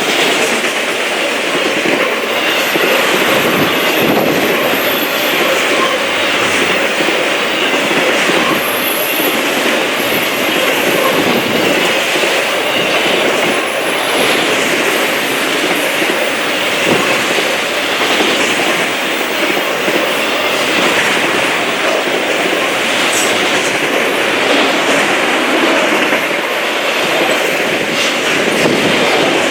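Fast freight train cars rolling past at speed: a steady loud rush of wheels on rail with clickety-clack, and faint high-pitched wheel squeals now and then.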